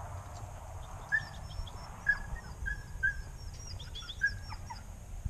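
A bird chirping: about five short, sharp chirps spread over a few seconds, with fainter high twittering between them, over a low rumble of wind.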